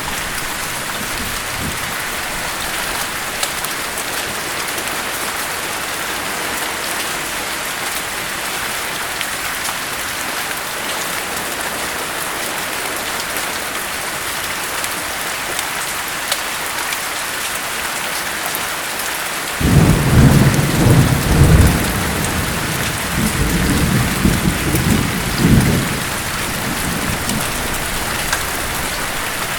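Steady rain hissing throughout. About two-thirds in a roll of thunder starts suddenly, rumbling low in two surges for about six seconds before fading back under the rain.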